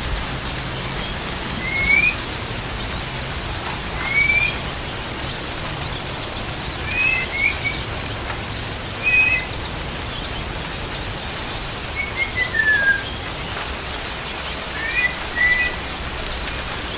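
A songbird giving short rising whistles every two seconds or so, with a falling run of several notes near the middle, over a steady hiss.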